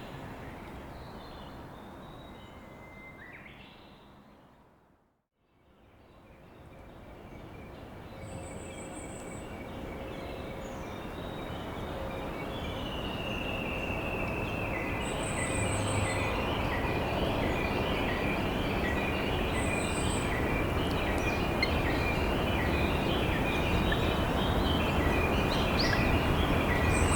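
Steady rush of a flowing river with wild birds singing over it; the sound fades out to near silence about five seconds in, then fades back in and grows louder. After the fade many short bird calls overlap, with one longer sliding call and a brief very high note that comes back every few seconds.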